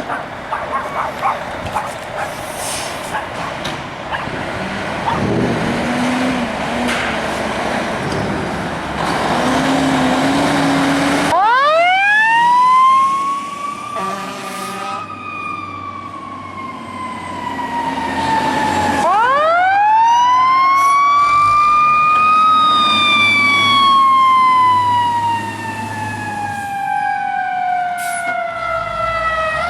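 Fire apparatus siren winding up in a steep rising wail, then sliding slowly down in pitch, twice over, and starting to wind up a third time at the end. Before the first wind-up there is a noisy rumble of heavy vehicles and traffic.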